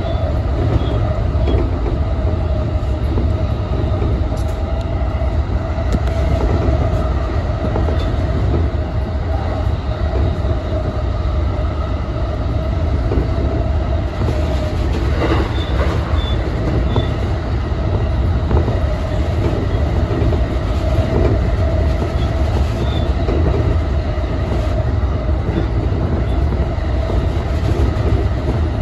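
E233 series electric commuter train running at speed, heard from the front cab: a steady rumble of wheels on rail with a constant whine. There is a short louder noise about fifteen seconds in.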